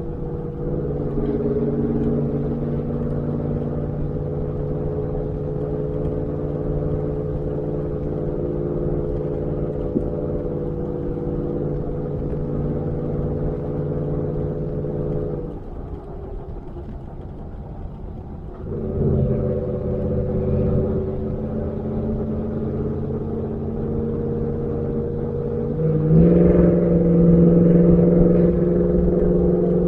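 Ford F-150's Borla ATAK aftermarket exhaust running at a steady pitch while the truck cruises. It falls quieter for a few seconds about halfway through as the throttle eases off, then comes back on. It grows louder with a pull of acceleration near the end.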